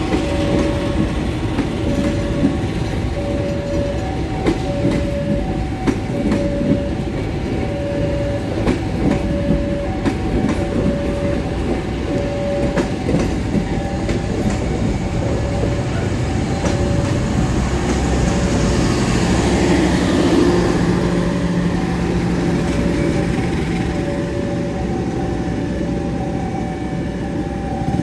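Passenger coaches of the Commuter Line Supas rolling past over a level crossing, the wheels clicking over rail joints, the clicks thinning out in the second half as the end of the train goes by. A level-crossing warning signal repeats two alternating tones, about one a second.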